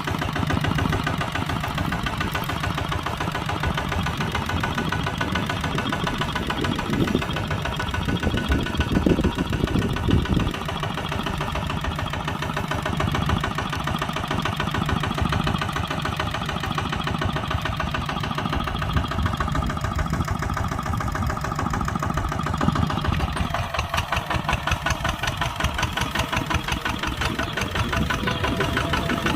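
Kubota tractor's diesel engine running steadily while plowing, with a few louder thumps about nine to ten seconds in.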